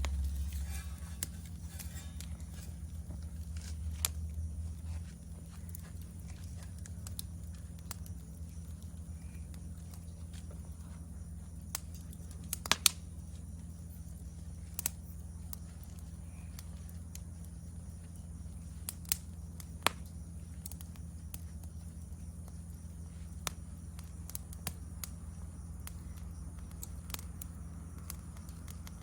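Wood campfire burning, with irregular sharp pops and snaps of the wood every second or two over a steady low rumble.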